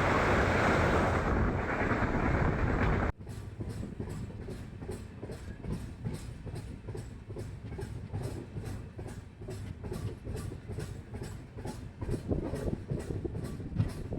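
Indian Railways express train running: a loud rushing noise for the first three seconds, then after an abrupt cut a steady rhythmic clickety-clack of the wheels passing over rail joints, several clicks a second.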